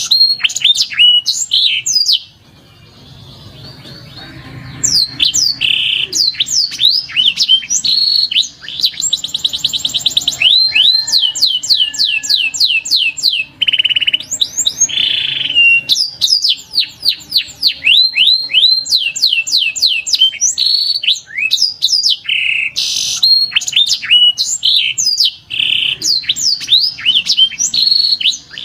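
Canary song: long rolling trills of fast repeated notes alternate with rapid swooping whistled notes. The song breaks off for a couple of seconds near the start.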